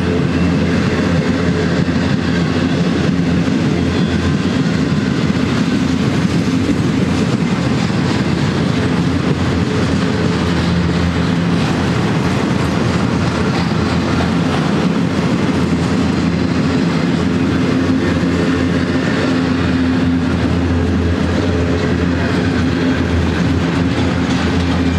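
Union Pacific double-stack intermodal freight train's well cars rolling past close by: a loud, steady rumble of steel wheels on the rails with a low hum running under it.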